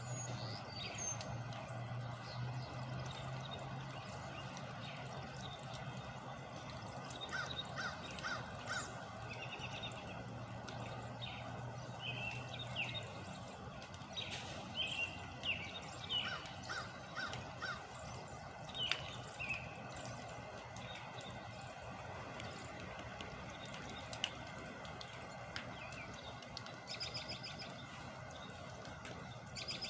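Birds calling over steady outdoor background noise, with some caw-like calls. A low steady hum fades out about halfway through.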